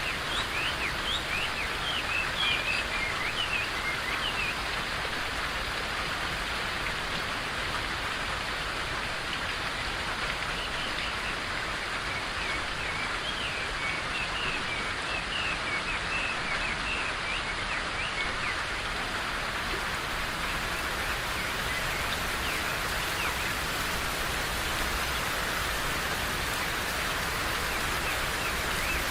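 Steady rain falling in a forest, with birds chirping in short, high calls now and then over it.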